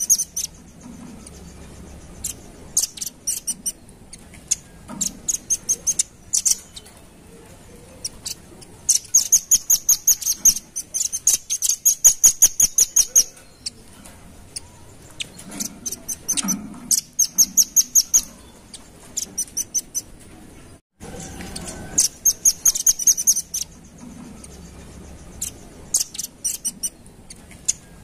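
Velvet-fronted nuthatch calling: rapid rattling trains of high, sharp notes, each burst lasting a second or two and repeated after short pauses. A brief cut to silence about three-quarters of the way through.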